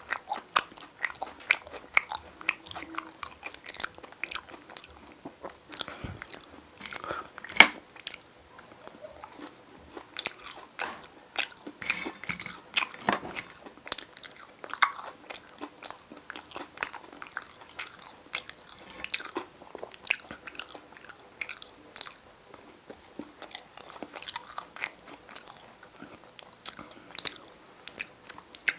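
Close-miked mouth sounds of a man eating potato stew from a fork: steady wet chewing and biting, a dense run of quick small clicks, with one sharper, louder click about seven and a half seconds in.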